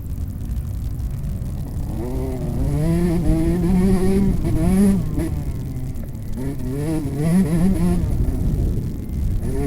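Motocross bike engine revving, its pitch rising and falling as the rider works the throttle through two pulls, over a steady low rumble of wind on the microphone.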